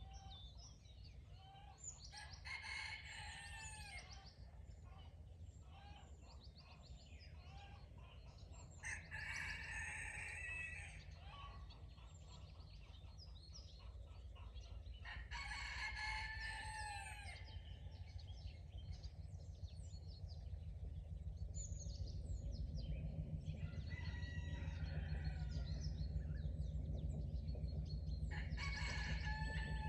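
A rooster crowing about five times, each crow lasting a second or two, over songbirds chirping. A steady low rumble grows louder in the second half.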